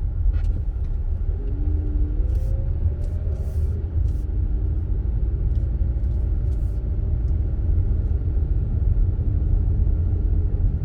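A car driving slowly, with a steady low road and engine rumble heard from inside the cabin; the engine note rises briefly about a second and a half in. A few faint clicks sound over it.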